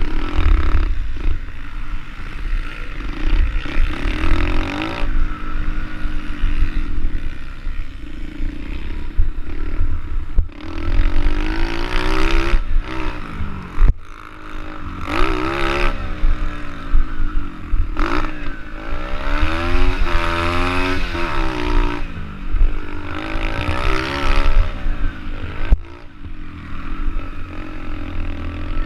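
SSR110 pit bike's small single-cylinder four-stroke engine revving hard, its pitch climbing and falling again and again as the throttle opens and closes, over a constant low rumble.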